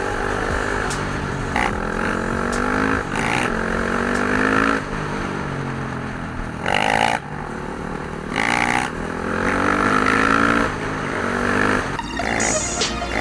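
Dirt bike engines running and revving, their pitch rising and falling with louder surges of throttle about seven and eight and a half seconds in.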